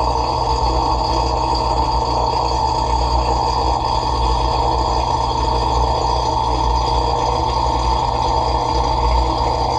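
Dishwasher running mid-cycle, heard from inside the tub: a steady motor hum with the even rush of water spraying.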